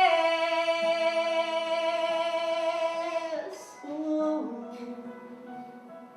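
A singer holds the song's last note for about three seconds, and it cuts off. The accompanying instrument then plays a few soft closing notes that fade away.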